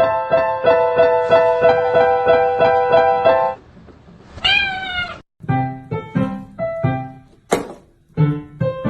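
Background piano music with a single cat meow about four and a half seconds in, rising and then falling in pitch during a short break in the music.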